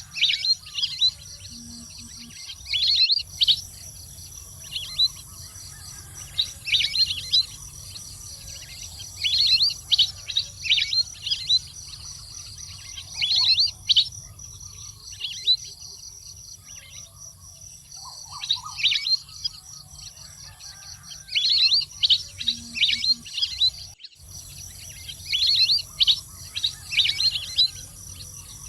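Wild duck (waterfowl) calling in repeated bursts of short, high, falling chirps, several groups a few seconds apart, over a steady high-pitched drone.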